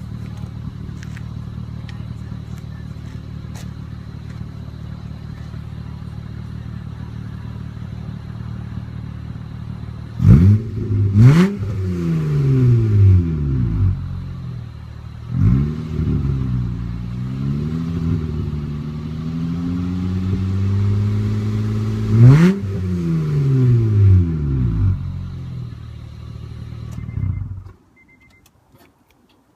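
2004 Acura TL's 3.2-litre V6 with mid and rear mufflers and intake resonator deleted and a cold air intake, idling steadily, then about ten seconds in revved in two quick blips and a slower climb, held at raised revs with the pitch wavering, blipped once more and settled back to idle. The sound cuts off near the end.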